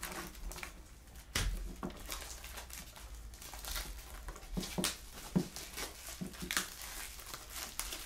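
Plastic wrapping crinkling and tearing off a trading-card hobby box, with irregular rustles and knocks as the box is handled; the sharpest knocks come about a second and a half in and again about five seconds in.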